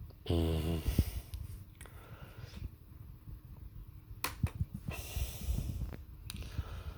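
A man's short hummed vocal sound near the start, then several audible breaths, with a couple of sharp clicks in the second half.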